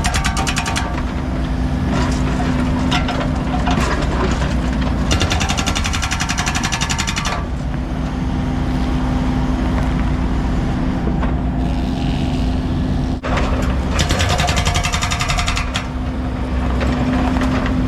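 Heavy equipment engine running steadily under load, with several stretches of rapid, even clatter laid over it, a few seconds each.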